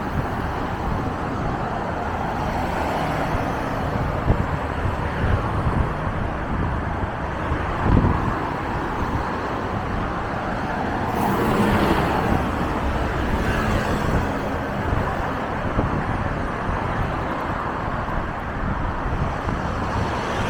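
Diesel intercity buses driving by amid steady road traffic, with a short sharp hiss about eleven seconds in.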